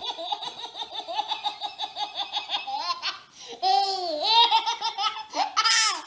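Baby laughing hard: a fast run of short giggles for about three seconds, then louder, longer belly laughs, ending in a high squeal.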